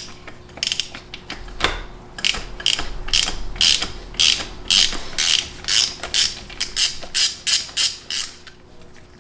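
Hand ratchet wrench clicking as it is worked in short strokes, unscrewing the old oil pressure sensor from the engine block. The strokes come slowly at first, then settle into a steady rhythm of about three a second.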